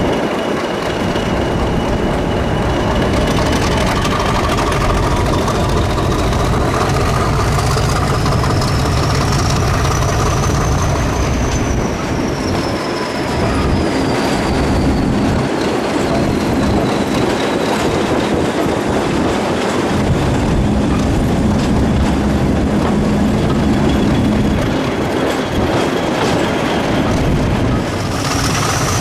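Diesel-hauled train running along the track, with a steady low rumble and a high whine that climbs in pitch over the first ten seconds or so, then slowly falls away.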